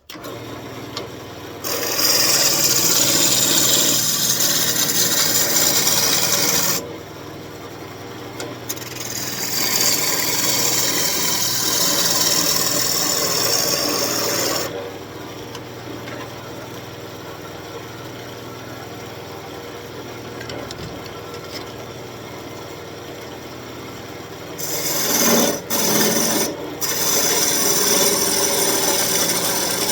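Wood lathe running while a turning tool cuts the spinning elm blank, in three long spells of loud shearing hiss, the first beginning about two seconds in and the last near the end. Between the cuts only the lathe motor's steady hum is heard.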